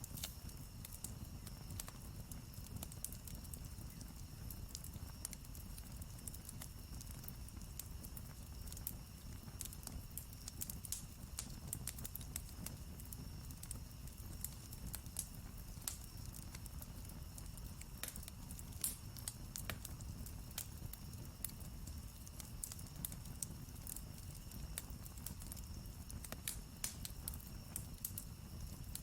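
Campfire crackling, with irregular sharp pops and snaps from the burning wood over a low, steady rush of the flames. A faint, steady high-pitched tone runs underneath.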